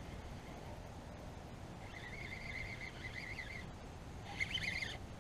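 Faint bird song: a wavering high-pitched phrase in the middle, then quicker chirps near the end, over a low rumble of wind on the microphone.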